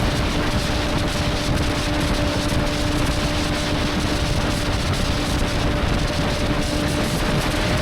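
Motorcycle cruising at a steady speed: the engine holds one even pitch under a loud, constant rush of wind noise.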